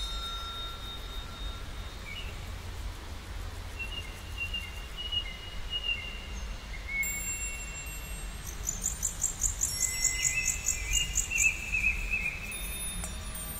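Birds calling outside: thin wavering whistles come and go, and about nine seconds in there is a quick run of high chirps, over a low steady rumble.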